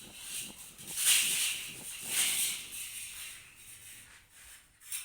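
Two bursts of crackling hiss about a second apart, from welding and heat-treating the joint of a bandsaw blade.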